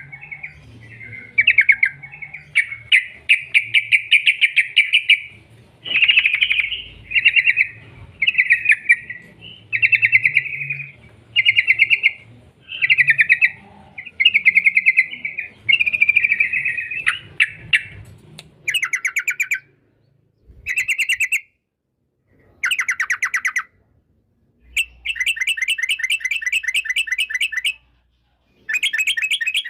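Yellow-vented bulbul (trucukan) singing a rapid, bubbly chattering song in repeated phrases. The phrases run almost back to back at first, then come as separate bursts with short silent gaps in the second half.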